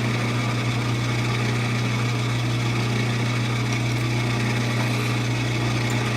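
Lathe motor running at a steady speed with a strong, even low hum, while a center drill bit dimples the end of a wooden dowel.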